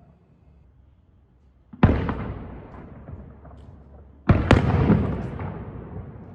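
Aerial firework shells bursting: after a near-quiet start, a sharp bang about two seconds in and another about two and a half seconds later, each trailing off in a long rolling rumble that slowly dies away.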